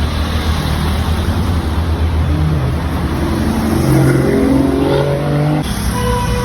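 Porsche sports car engine accelerating: a steady low rumble, then the engine note climbs in pitch over about three seconds from the middle and breaks off abruptly near the end.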